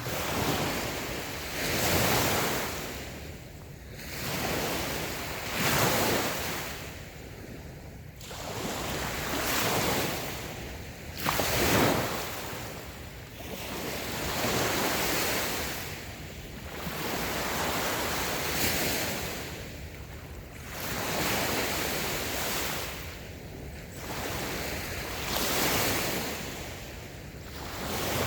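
Small waves washing onto a sandy beach, a steady hiss of surf that swells and falls back every few seconds, with light wind on the microphone.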